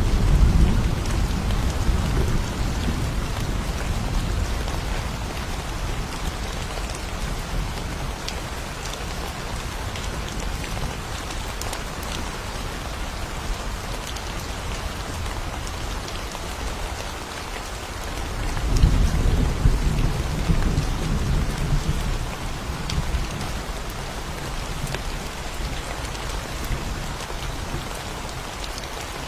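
Steady rain falling during a thunderstorm, with low rolling thunder. One rumble dies away over the first few seconds, and another rolls in about two-thirds of the way through and fades after a few seconds.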